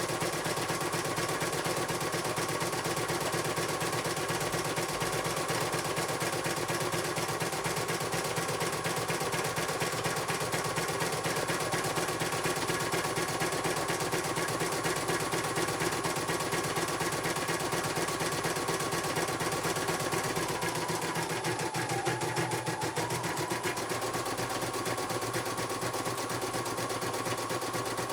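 CNY computerized embroidery machine stitching, its needle running in a rapid, even rhythm with the motor's hum. The pitch dips briefly about three-quarters of the way through, as the machine slows and picks up again.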